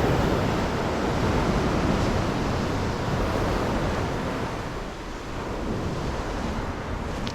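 Ocean surf washing onto a beach, with wind buffeting the microphone: a steady rushing noise that eases off about five seconds in.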